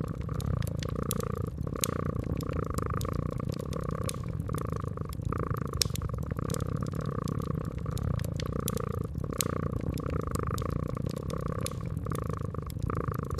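A cat purring steadily, swelling and easing in a slow rhythm about once a second, over a crackling wood fire with frequent sharp pops and snaps.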